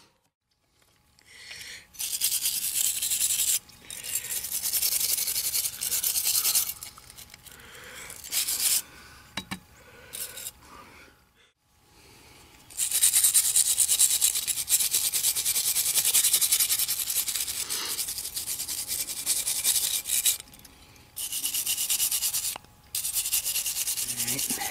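Stretches of rapid rubbing or scrubbing on a small die-cast metal toy car body, as the old paint is worked off. The scrubbing comes in bursts of a second or more, with one long run of about seven seconds in the second half.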